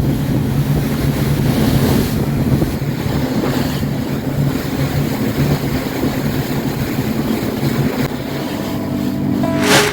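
Fast ferry's engines running with a steady low hum, under the rush of wind on the microphone and water along the hull. A brief louder rush near the end.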